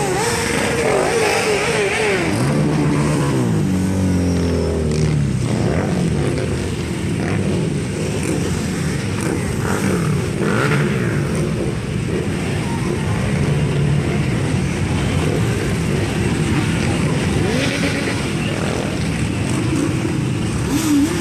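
Harley-Davidson motorcycles riding past in a parade, their V-twin engines running and revving in overlapping waves. A few seconds in, one bike's engine note drops as it goes by.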